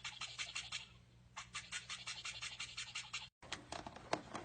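Toothbrush scrubbing in quick, even back-and-forth strokes, about eight a second. The strokes come in two runs with a short pause between them, and a few scattered clicks follow.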